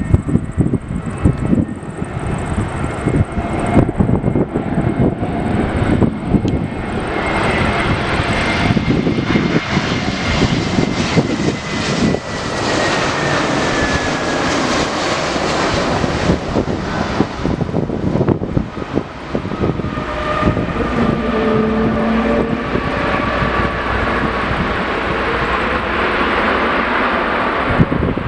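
Jet aircraft engines passing the airport, a loud steady noise that swells after several seconds of gusty rumble, with a high turbine whine falling in pitch as the aircraft goes by, then a second, lower whine falling slowly.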